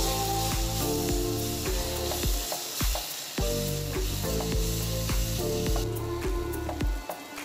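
Tomato-onion masala sizzling in a nonstick pan while a wooden spatula stirs it, with background music underneath. The sizzling hiss stops about six seconds in.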